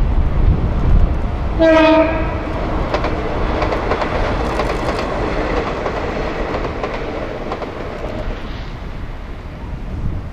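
Shinano Railway 115 series electric train sounding one short horn blast about two seconds in. The blast is followed by the steady rumble and rail clatter of the train running.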